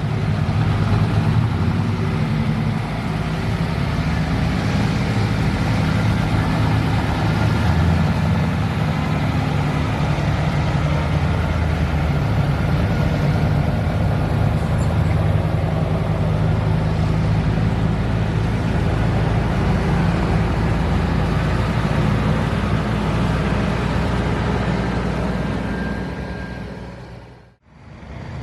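Heavy truck's diesel engine running with a steady, deep note. It cuts out abruptly near the end.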